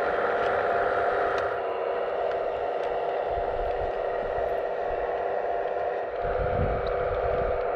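Hydraulic pump of a 1/15 scale RC model excavator running with a steady whine.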